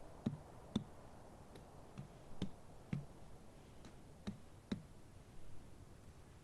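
Light, irregular clicks and knocks of camp gear being handled during tent setup, about nine in five seconds.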